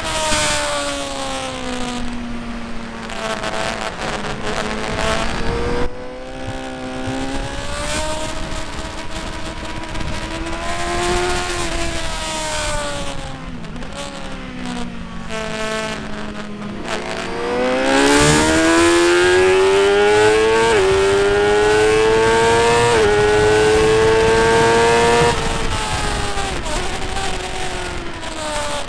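Motorcycle engine lapping a race circuit. It slows with falling revs, then accelerates hard from about two-thirds of the way through, revs climbing with two gear changes, and is loudest while accelerating. It eases off near the end.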